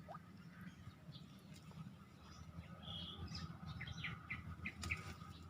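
Faint bird chirps, a few short high calls about three to four seconds in, over a low steady background hum.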